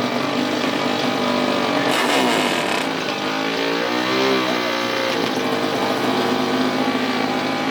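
Dirt bike and ATV engines running and revving, several at once. About halfway through, one engine's pitch dips and then climbs again.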